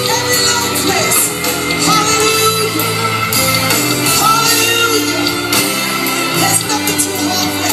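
Live Christian worship music: a band playing with voices singing.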